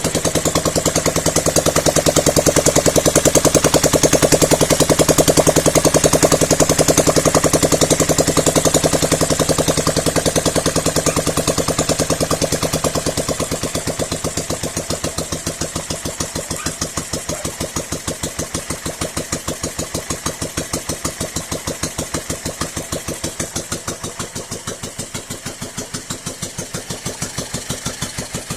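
Dnepr-16 motorcycle with a Ural air-cooled flat-twin engine idling, with an even exhaust beat. It runs louder at first, then settles to a quieter, lower idle from about twelve seconds in.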